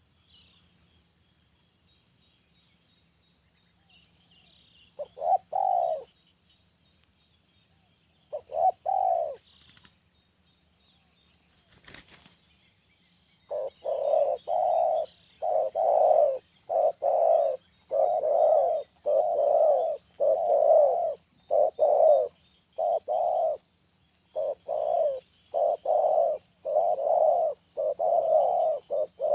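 Spotted dove (tekukur) cooing: two short calls about five and eight seconds in, then from about a third of the way through a long run of repeated coos, roughly one or two a second. A faint steady high-pitched tone runs underneath, and a single sharp click comes just before the long run.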